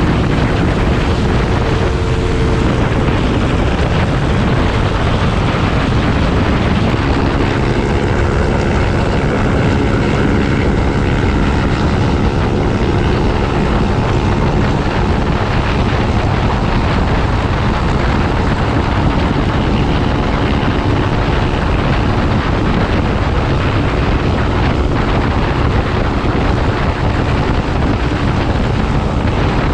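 Wind rushing over the microphone of a moving motorcycle, with the engine's steady drone underneath.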